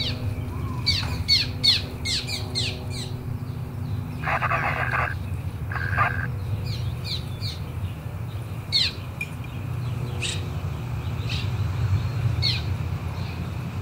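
Wild birds chirping in quick runs of short falling notes, with a harsh, buzzy call a little past four seconds in and a shorter one at six, over a steady low background hum.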